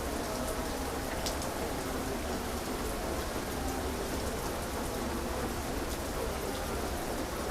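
Heavy rain falling steadily, with separate drops ticking through the even hiss.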